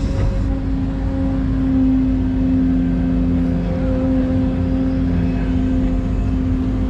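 Excavator's diesel engine running steadily under load, with a constant hum-like whine over its low rumble.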